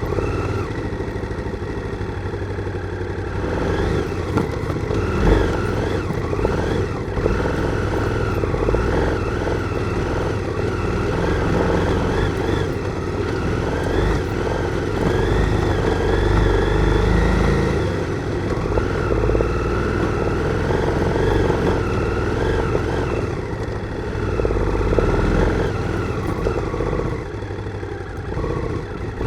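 Motorcycle engine running on the move, its note rising and falling throughout.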